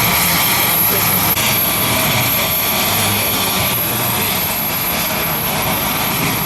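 Leonardo AW249 Fenice attack helicopter in a flying display, its rotor and turbine noise loud and steady.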